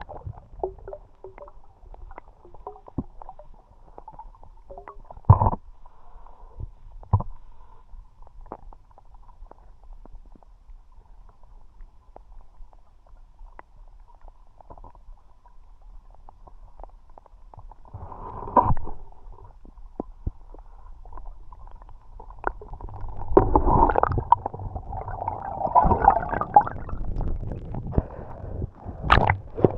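River water heard underwater through an action camera: scattered small clicks and ticks, with a sharp knock about five seconds in and another about seven seconds in. Near the end come stretches of loud gurgling and bubbling.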